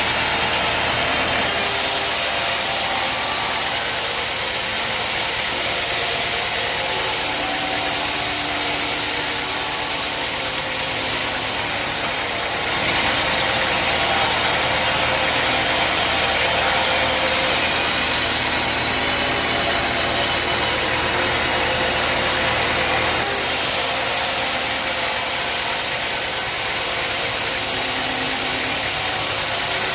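Sawmill machinery running steadily: a low engine hum under a loud hiss, which changes character a few times.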